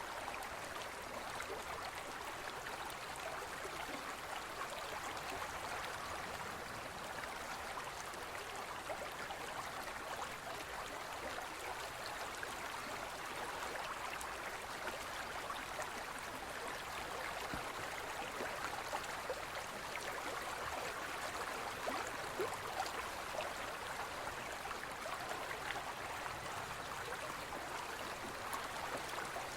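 Gentle forest stream flowing and gurgling over rocks, a steady, even rush of water.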